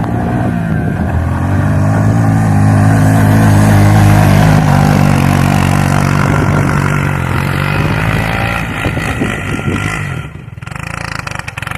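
Suzuki King Quad ATV's single-cylinder four-stroke engine held at high revs under load while trying to drive out of deep snow, then dropping back to a quieter, lower running sound about ten seconds in.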